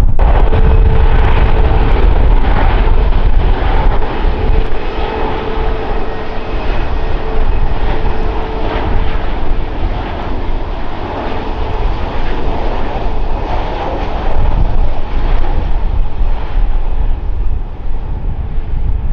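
Airliner engines running close by: a loud, heavy rumble with a steady whining tone that fades out about twelve seconds in, the overall sound easing a little after the first few seconds.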